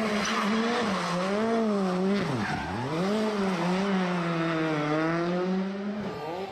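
Rally car engine at full effort on a stage, its note rising and falling with the throttle, with a sharp drop and quick recovery about two and a half seconds in.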